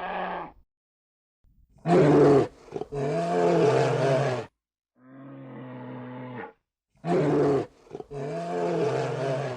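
Lion roaring in a series of five deep calls, the middle one quieter than the rest.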